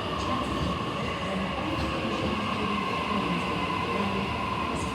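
Sydney Trains Waratah (A set) electric train running at a station platform: a steady hum and noise with a whine over it.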